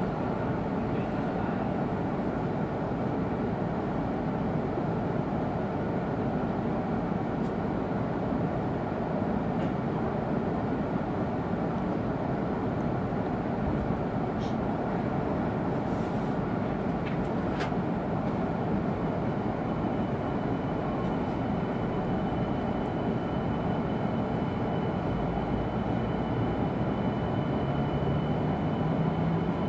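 Interior running noise of an E2-series Shinkansen car: a steady rush of wheel and air noise, with a few faint clicks. A thin high steady tone joins about two-thirds of the way through.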